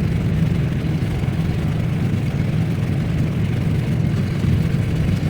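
Engine running steadily at idle: an even, low hum with no change in speed.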